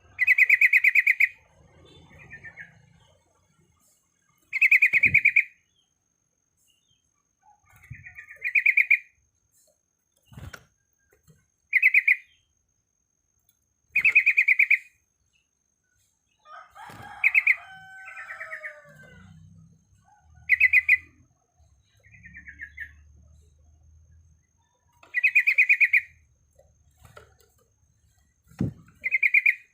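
Yellow-vented bulbul (trucuk) singing: loud, bubbly trilled phrases about a second long, repeated every three to four seconds, with softer chirps between them. A few short dull thumps fall between the phrases.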